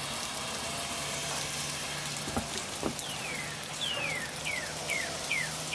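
Steady hiss of sleet falling, with a bird calling in short downward-sliding whistles, two or three a second, from about three seconds in. A faint low hum runs underneath.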